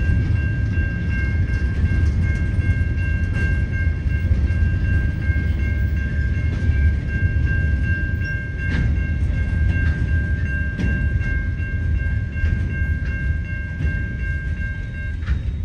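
Loaded coal hopper wagons of a freight train rolling past a level crossing: a steady low rumble of wheels on rail with occasional clacks over the joints. Over it the crossing's warning bell rings steadily, cutting out shortly before the end as the train clears.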